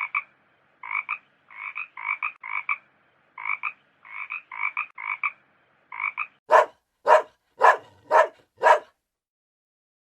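A frog croaking in short two-note calls, about ten over six seconds. Then a dog barking five times, about half a second apart.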